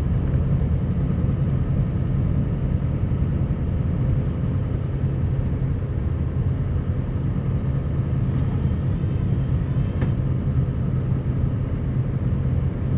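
Scania R560's V8 diesel engine running steadily, a constant low drone mixed with road and plow noise as the truck plows snow.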